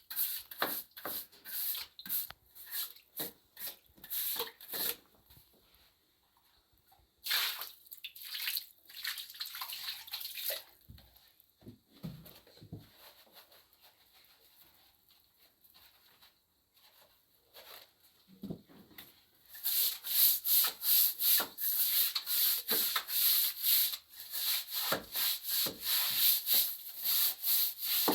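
Rapid, repeated rubbing strokes, a few a second, that go quiet for several seconds in the middle and then come back louder.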